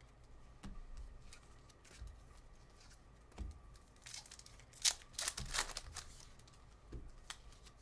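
A trading card pack wrapper being torn open and crinkled, with light clicks and rustles of cards being handled; the loudest rips come about four to five and a half seconds in.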